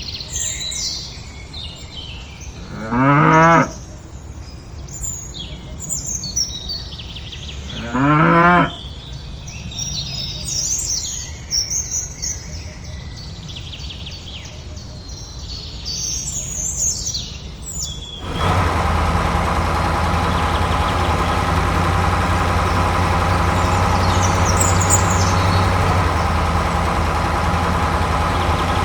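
A cow mooing twice, a few seconds apart, over birds chirping. About two-thirds of the way through the sound switches suddenly to a steady engine running.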